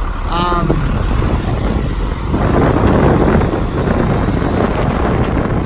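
International DT466 inline-six diesel of a bucket truck driving off, getting louder about two seconds in, with wind buffeting the microphone.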